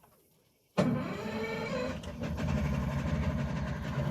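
A boat engine idling steadily, starting abruptly about a second in after a brief near-silence.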